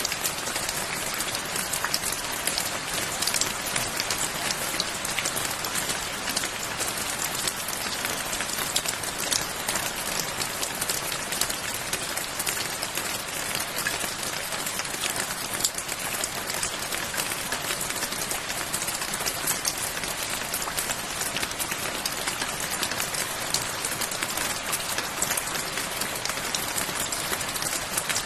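Steady rain falling on a surface, an even hiss dotted with countless small drop impacts, without change.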